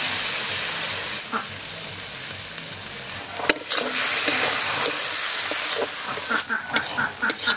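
Wet poppy-seed paste sizzling in hot oil and masala in a metal kadai while it is stirred with a metal spatula. About three and a half seconds in, the spatula clacks sharply against the pan and the sizzle swells again.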